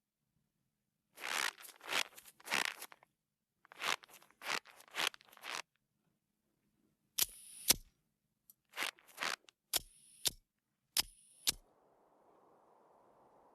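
Cartoon sound effects: two runs of short scraping, rustling bursts, then several pairs of sharp clicks. A faint steady hiss comes in near the end.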